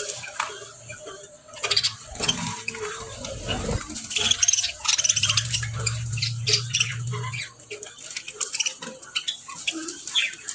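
Two male budgerigars chattering, a busy run of quick high chirps, clicks and warbles, with a low hum for a couple of seconds in the middle.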